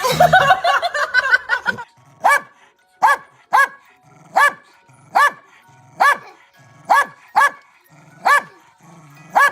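A dog barking: a quick flurry of barks, then a steady run of single barks a little under one a second.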